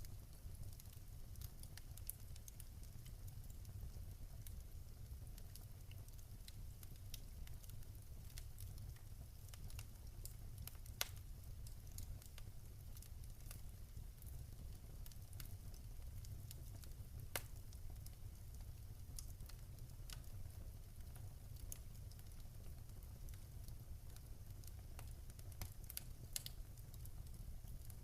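Wood fire crackling: a steady low rumble under irregular small snaps and pops, with a few louder pops about 11, 17 and 26 seconds in.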